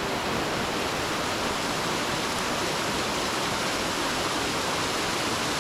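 Waterfall running: a steady rush of falling water at the top tier of the falls.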